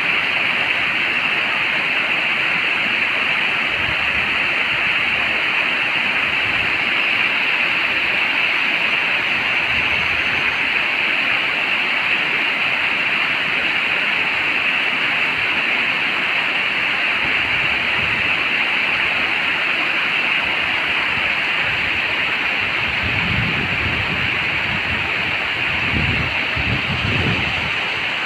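Steady rushing of river water, even and unbroken, with some low rumbling near the end.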